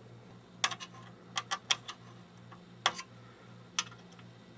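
Short, sharp plastic clicks and taps, about six at irregular intervals, as the locking tabs on a monitor's ribbon-cable connector are pushed in and lifted by hand.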